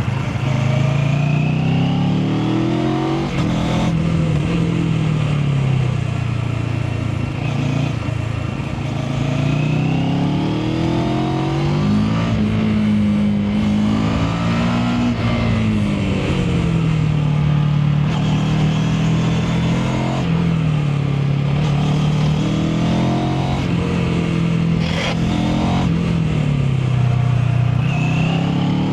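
Mash FR 750 motorcycle engine on the move, heard from the rider's seat: it revs up and falls back again and again as the bike accelerates and slows, with sudden drops in pitch at gear changes.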